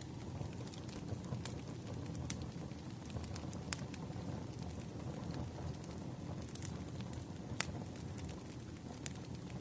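Log fire crackling: a steady low rushing sound with a few scattered sharp pops of burning wood.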